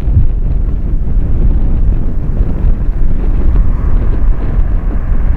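Wind buffeting the microphone, a loud low rumble, mixed with the roar of jet aircraft at the airport.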